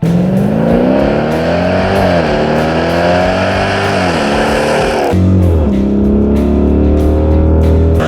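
A 5.7-liter Hemi V8 in a Dodge Durango, fitted with a Stainless Works 3-inch stainless catback exhaust with an X-pipe, accelerating hard through the exhaust. The pitch climbs and falls back twice as the gears change, then drops and settles into a lower, steady note about five seconds in.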